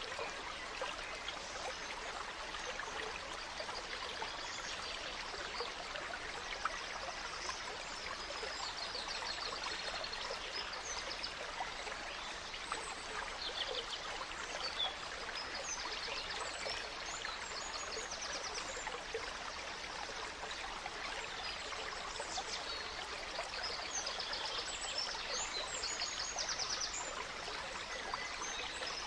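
A gentle stream running steadily, with small songbirds chirping and singing quick high trills over it, the birdsong growing busier after several seconds.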